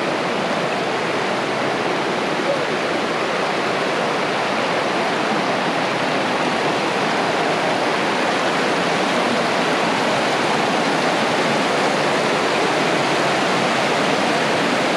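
Linville River water rushing over rocks: a loud, steady rush of white water.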